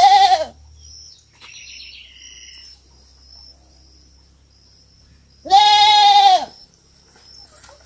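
Young goat kid bleating twice: a short call at the start and a longer call of about a second near the end, each rising and falling in pitch.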